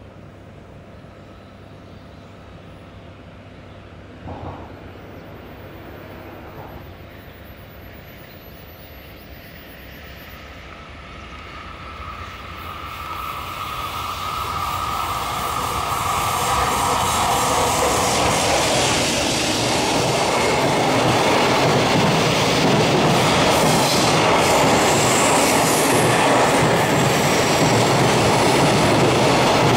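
A JR Freight EF200 electric locomotive and its long train of container wagons approach and pass close by. The sound builds from faint over several seconds, with a steady high whine as the train draws near. It then settles into the loud, steady running noise of wheels on rails as the wagons go past.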